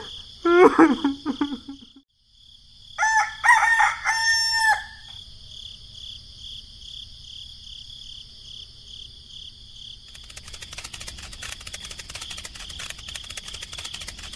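A rooster crows about three seconds in, a pitched call held for nearly two seconds that ends with a drop. Under it runs a steady high insect drone, and from about ten seconds in a rapid fine ticking joins.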